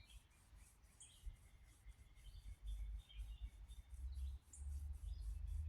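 Faint birdsong: short, scattered chirps over a low, uneven rumble.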